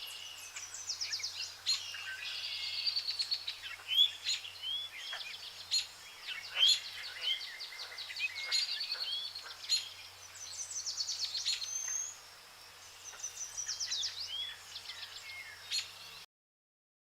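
Several birds singing and calling at once: sharp chirps, quick rattling trills and short whistled notes overlapping. The sound cuts off abruptly near the end.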